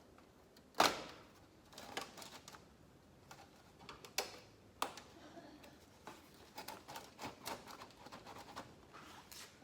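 Irregular knocks and clicks of hand work on a caravan's exterior cladding panel as it is worked loose, with one sharp knock about a second in and a denser run of small taps near the end.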